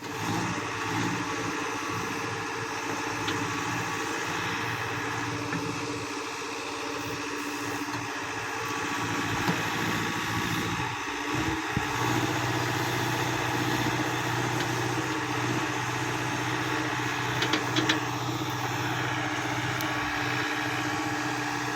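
Loader backhoe engine running steadily; its note shifts about halfway through. A few short knocks come near the end.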